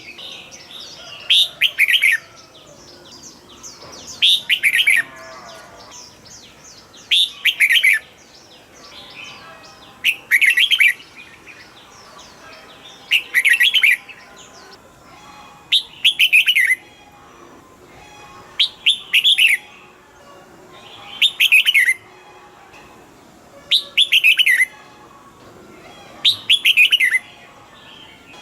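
Red-whiskered bulbul singing: loud short phrases of quick falling whistled notes, repeated about every two and a half to three seconds, over fainter background twittering.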